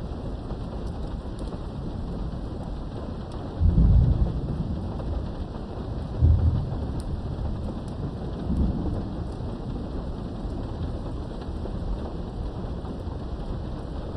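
Steady rain heard through a window, with low thunder rumbles breaking through three times: the loudest about four seconds in, then shorter ones around six and nine seconds.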